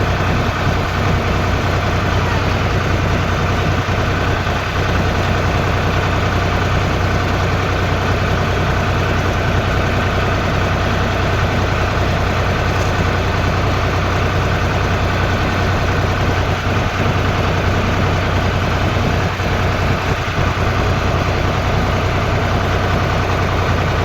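Tractor engine running at a steady speed: a steady low drone that holds the same level throughout.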